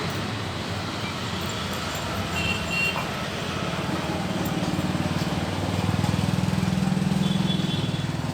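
A motor vehicle engine running close by, with a fast low pulsing that grows louder about six seconds in and eases near the end.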